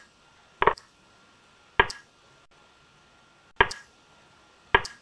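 Four short wooden clacks about a second or two apart: the piece-move sounds of an online blitz chess game as moves are traded quickly.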